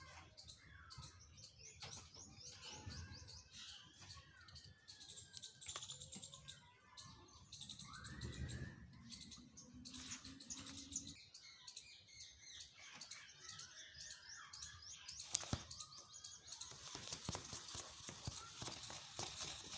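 Small birds chirping in many quick, repeated chirps, with a few gliding calls among them and one sharp click past the middle.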